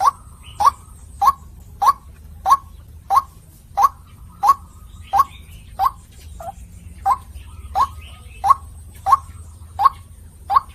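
White-breasted waterhen (ruak-ruak) calling a long run of short, evenly repeated "kwak" notes, about one and a half a second, over a faint low hum.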